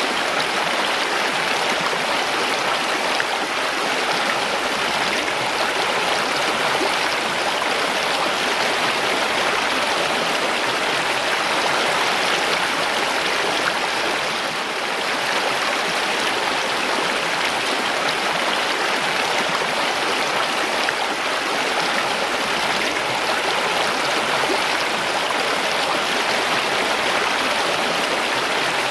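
Mountain stream: water rushing and splashing over rocks in a steady, unbroken flow.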